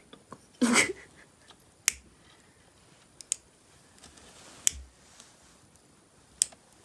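A short noisy knock about a second in, then four sharp single clicks spaced a second or more apart.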